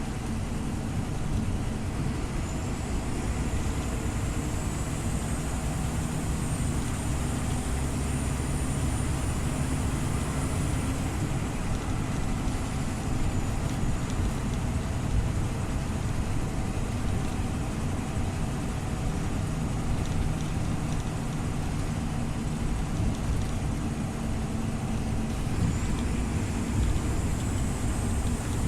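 Scania OmniLink CL94UB city bus under way: steady engine drone and road noise. A thin high whine rises about two seconds in, holds for several seconds, and comes back near the end.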